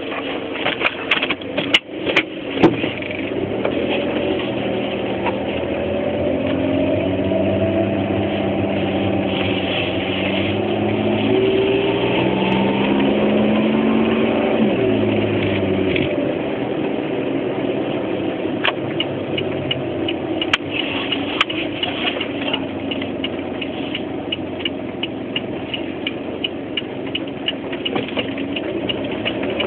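A car engine running while the car is driven, its pitch rising and falling as it accelerates and changes gear. There are a few sharp knocks near the start and a fast, even ticking through the last third. It is the car's abnormal noise, recorded to check whether it has gone.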